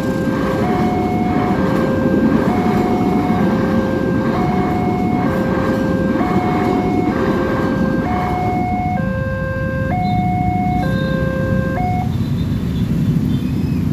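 Level-crossing warning alarm sounding its two-tone signal, switching between a lower and a higher tone about once a second, over the rumble of a passing train. The train rumble eases off about nine seconds in and the alarm stops about twelve seconds in.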